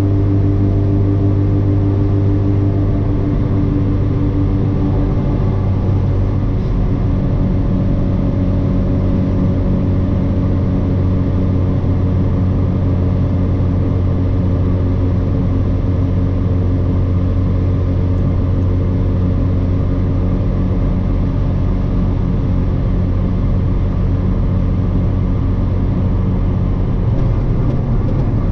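Honda K24A2 four-cylinder engine running at a steady cruise, with road rumble, heard from inside the moving car's cabin. The engine note changes about five or six seconds in, then holds steady again.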